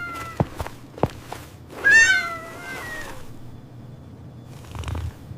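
Kitten meowing: the end of one mew at the start, then one long, drawn-out mew about two seconds in that falls in pitch. A few light clicks come before it.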